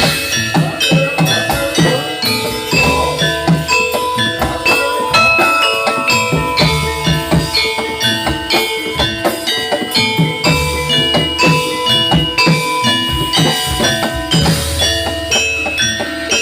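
Javanese gamelan music for a Jathilan horse dance, played loud: metal mallet instruments ring out a dense run of notes over a steady drum beat.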